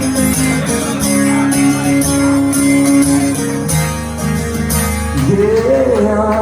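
Live guitar music: strummed chords with steady held tones, and a singer's voice coming in about five seconds in.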